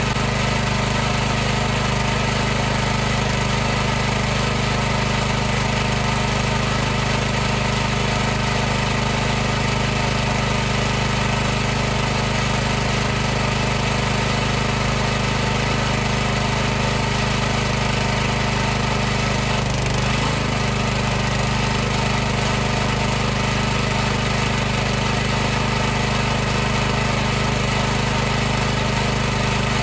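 High-pressure washer running steadily: an unchanging hum from its motor and pump, with an even hiss over it.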